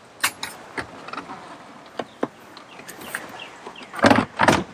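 Thule Hullevator lift arms being worked to raise a kayak back onto the roof rack: scattered clicks and creaks, then a louder double clunk about four seconds in.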